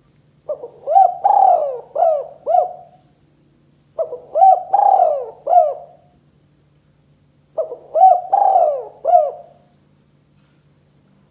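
Spotted dove cooing: three phrases of four or five quick, arching coos each, about three and a half seconds apart. A faint steady hum lies underneath.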